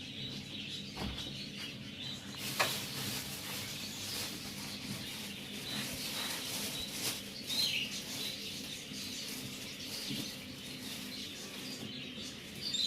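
Small cage birds chirping intermittently, with a few brief clicks or knocks, the sharpest about two and a half seconds in.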